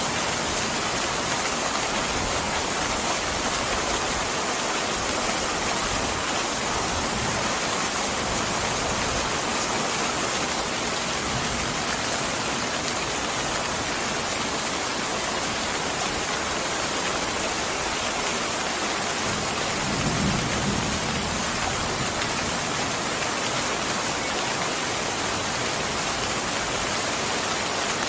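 Steady heavy rainfall, an even hiss of rain falling on surfaces, with a brief low rumble about twenty seconds in.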